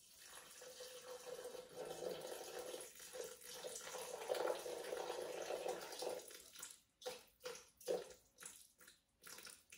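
Water poured in a steady stream from a jug into a Thermomix's steel mixing bowl through the lid opening, 300 grams being added for a soup. After about six seconds the stream breaks up into separate drips and small splashes as the pour ends.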